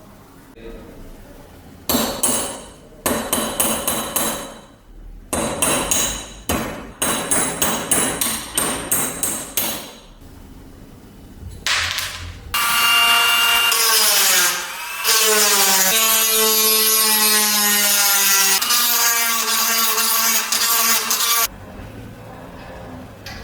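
A run of repeated hand-tool strikes or strokes, each one a sharp hit, for about eight seconds. Then, after a pause, a power tool's motor runs loudly with a whine and hiss; its pitch dips once and then holds steady for several seconds before cutting off.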